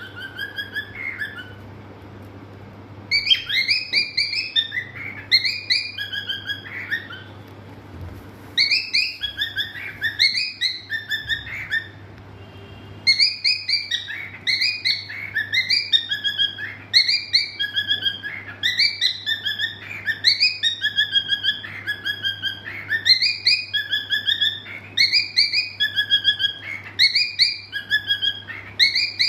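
Cockatiel singing: repeated short whistled phrases of quickly rising and falling notes, pausing a few times in the first half and running almost without a break in the second half.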